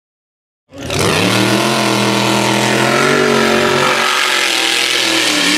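A mud-racing mega truck's engine running hard at high revs over a heavy roar of noise, cutting in suddenly under a second in; its pitch holds fairly steady with a couple of small dips.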